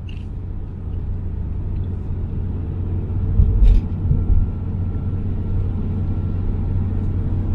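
Steady low rumble of road traffic, with a heavier low bump about three and a half seconds in.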